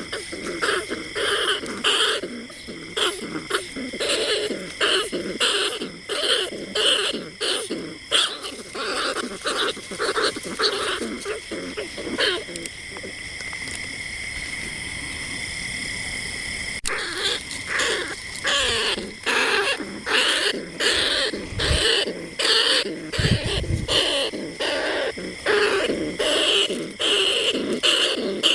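Recorded rat calls played as a trapping lure: rapid repeated squeaking chirps, about three or four a second. They give way to a steady held tone for about four seconds in the middle, then resume abruptly.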